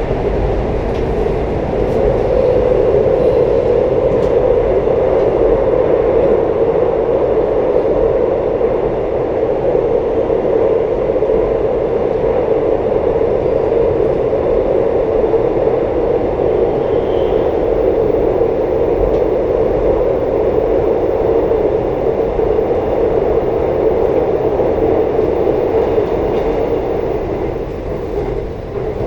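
Moving train's steady running noise, an even rush with no breaks, easing slightly near the end.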